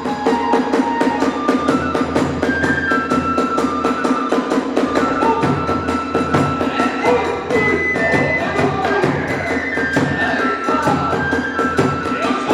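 Kagura hayashi accompaniment: a transverse flute playing a melody of held notes that step up and down, over a fast, unbroken beat of taiko drums and small hand cymbals.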